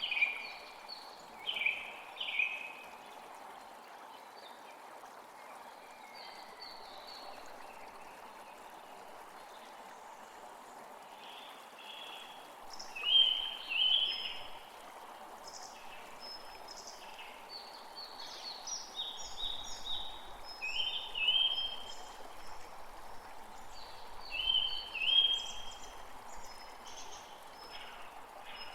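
Songbird calling in short, repeated high phrases that come in spells, loudest about halfway through and again near the end, over a steady rushing background like running water.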